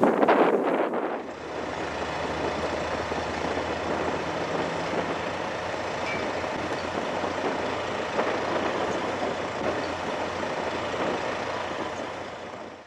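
Fire truck engine running steadily, with wind buffeting the microphone in the first second.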